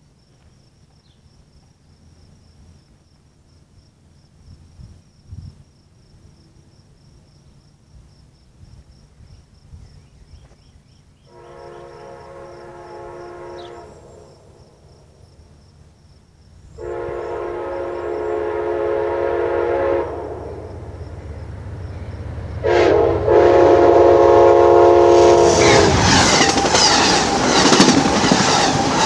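A diesel locomotive's air horn sounds three long blasts as the train approaches, rising in loudness; the last blast runs straight into the loud rumble and clatter of the train passing close by near the end.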